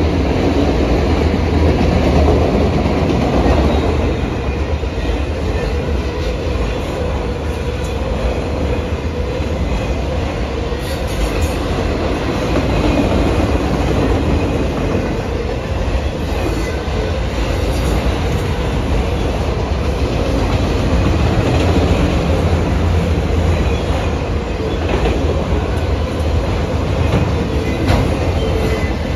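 Freight train of auto rack cars rolling past at steady speed: a continuous rumble of wheels on rail with clickety-clack over the rail joints.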